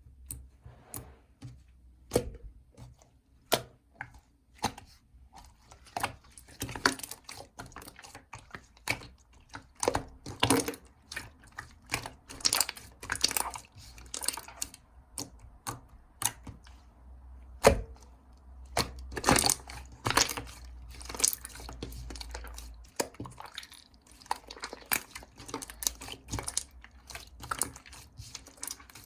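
Jiggly slime being squished and poked by hand, giving a run of irregular sticky clicks, crackles and small pops.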